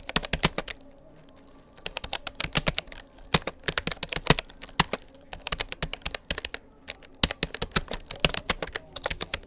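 Typing on a Rapoo computer keyboard: quick runs of key clicks, with a pause of about a second shortly after the start before the keystrokes resume.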